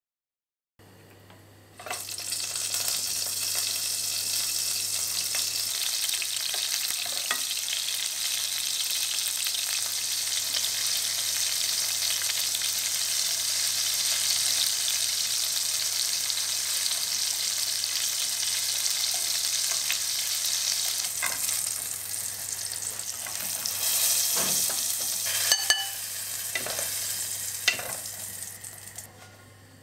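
Steady sizzling hiss of food frying, starting about two seconds in, with a few light clinks near the end.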